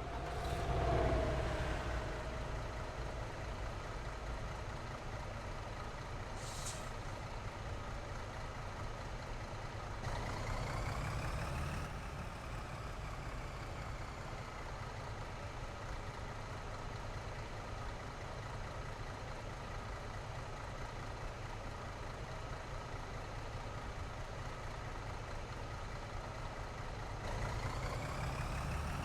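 Heavy truck traffic on a highway: truck engines and tyres rumbling steadily, a loud pass with a falling pitch about a second in, a brief hiss near seven seconds, and engine pitch climbing twice, around ten seconds and near the end.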